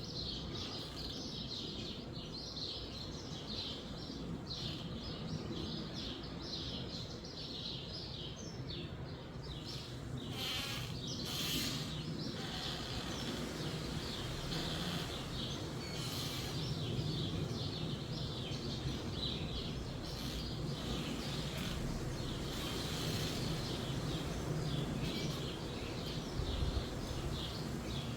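Small birds chirping busily over a steady low rumble of wind, with two short rushing noises about ten seconds in.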